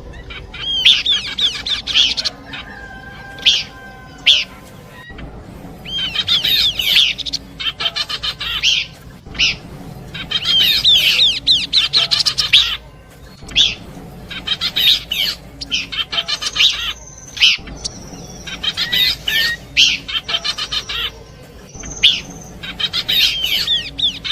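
Pelanduk semak babbler song: repeated bursts of rapid, chattering high notes, each lasting one to two seconds, with short gaps between them and an occasional thin steady whistle.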